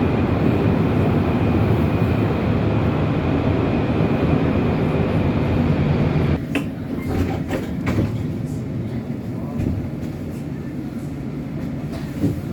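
Tram running: a steady rumble with a thin high whine that drops away sharply about halfway through, after which a few knocks and clicks are heard.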